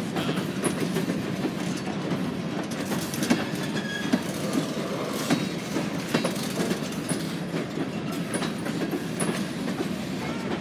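Train rolling past, a steady rumble of its cars with irregular sharp clacks from the wheels going over rail joints.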